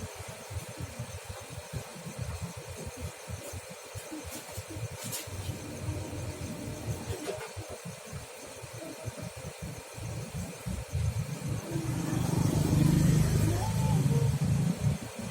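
Daihatsu Taruna engine idling while warming up, its exhaust pulsing rapidly and evenly; about twelve seconds in it gets louder and heavier.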